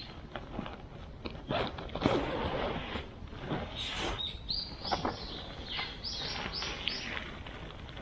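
A bird calling with a quick run of about seven short, high notes near the middle, over scattered clicks, knocks and rustling.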